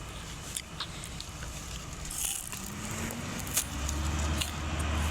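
Diesel engine of heavy machinery revving up about two and a half seconds in and then holding a steady low drone, with light metallic clicks and clinks throughout.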